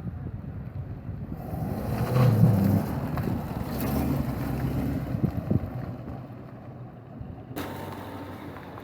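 A vehicle engine running close by, growing louder, loudest a couple of seconds in and then fading away, with wind on the microphone.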